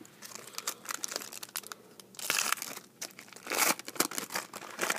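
Foil trading-card pack wrapper crinkling and tearing as packs are opened and cards handled, with scattered small clicks and two louder bursts of crinkling, a bit over two seconds in and about three and a half seconds in.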